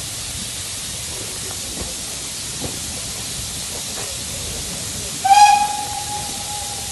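Steam locomotive hissing steadily, then its whistle sounds once about five seconds in, a single steady note held for about a second and a half.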